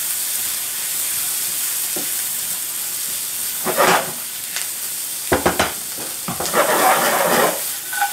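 Thinly sliced shallots sizzling in butter in a nonstick frying pan as they cook down towards caramelized, with a steady hiss. A silicone spatula scrapes and stirs them, loudest about four, five and a half and seven seconds in.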